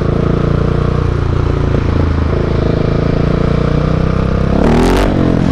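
Husqvarna 701 supermoto's single-cylinder engine running through a Mivv aftermarket exhaust, holding a fairly steady note under way. Near the end the note dips and climbs again with a brief rush of noise.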